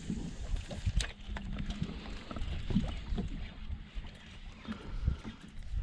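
Boat ambience aboard a small fishing boat: uneven low rumbling and knocking, with a sharp click about a second in.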